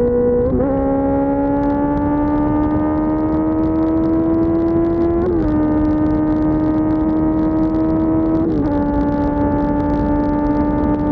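Suzuki GSX-R600 K4 inline-four with an SC-Project S1 race exhaust running at steady, moderate revs that climb slowly, with two short drops in revs about five and eight seconds in. A constant low rush of wind and road noise runs underneath.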